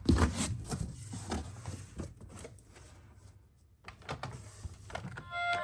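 Irregular light clicks and knocks of hard plastic toys being handled, with a low rumble under the first part; they thin out to almost nothing in the middle and pick up again near the end.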